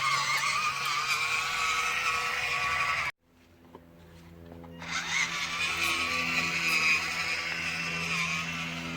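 Electric motor and gearbox whine of a 1:16 WPL B-1 RC model truck driving, its pitch wavering with speed. It cuts off abruptly about three seconds in, then background music fades in with the whine again over it.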